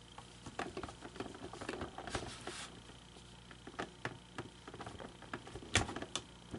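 Small plastic parts of an animated figure being handled and worked by hand: irregular light clicks, taps and scrapes, with one sharper click near the end. A faint steady high-pitched tone runs behind.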